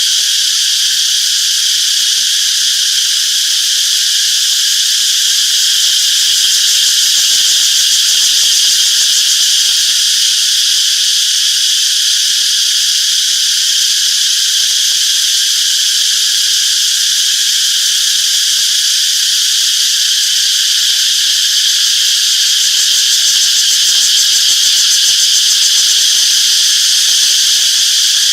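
A dense chorus of cicadas buzzing, a steady high-pitched drone that swells slightly and eases without a break.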